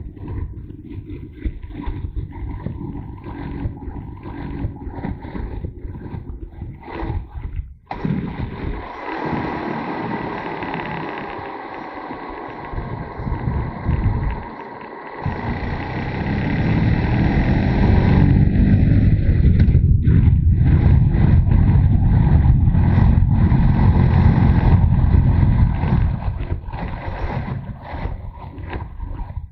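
Motorcycle engine running under way, its pitch falling and then rising again as the bike slows and speeds up, with heavy wind rumble on the microphone that builds and grows loudest past the middle.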